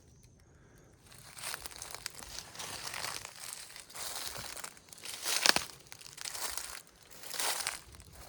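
Footsteps crunching through dry leaf litter and undergrowth, an uneven crunch about once a second, with a sharper snap about five and a half seconds in.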